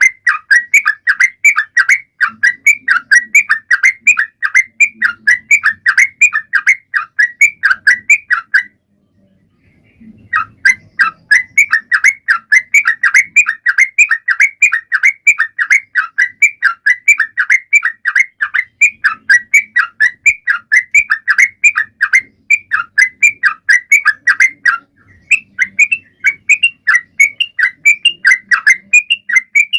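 Trucukan (yellow-vented bulbul) singing continuously in a fast run of repeated chirping notes, about four a second, broken by one short pause about nine seconds in.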